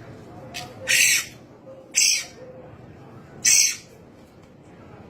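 A small bird giving three short, harsh screeches, the distress calls of a bird being handled to have a botfly larva removed.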